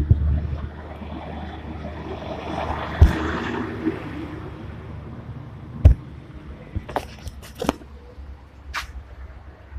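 Compact Japanese tractor engine running steadily with a low rumble. A couple of heavy thumps and some sharp clicks sound over it.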